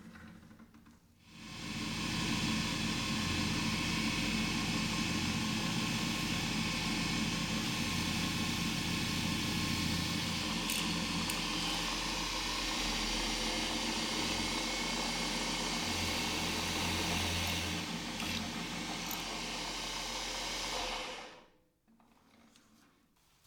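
An electric power tool running steadily for about 20 seconds, switched on about a second in and off near the end.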